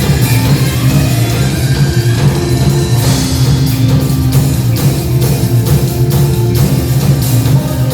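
Rock band playing live, electric guitar and drum kit, in an instrumental passage without vocals.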